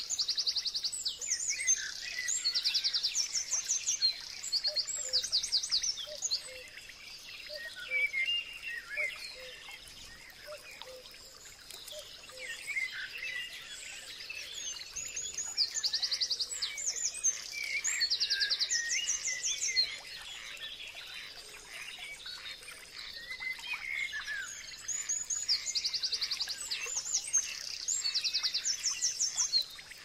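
Birds singing: three loud bouts of rapid, high trilled notes, about ten seconds apart, with softer scattered chirps between them and a faint steady high tone underneath.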